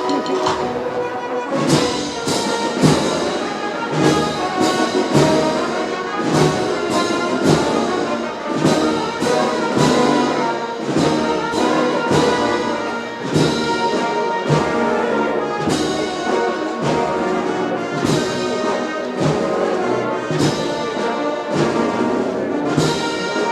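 A Holy Week agrupación musical playing a slow processional march: massed cornets, trumpets and other brass over steady drum beats about once a second.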